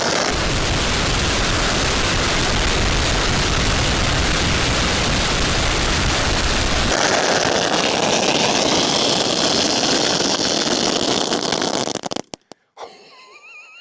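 A long roll of firecrackers going off, thousands of bangs merging into one loud, continuous crackle. The crackle stops abruptly about twelve seconds in, leaving a few scattered single pops.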